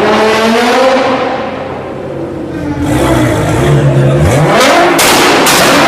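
Nissan GT-R engine revving, its pitch climbing and falling, then about four and a half seconds in the exhaust starts firing a rapid string of loud, sharp pops, two or three a second.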